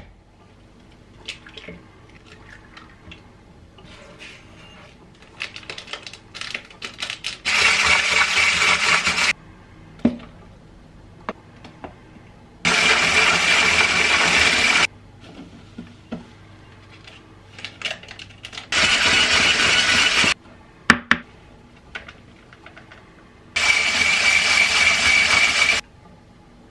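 Electric mixer run in four short bursts of about two seconds each, a steady whine that switches on and off abruptly, beating cake batter. Light knocks and clinks of bowl and utensils come between the bursts.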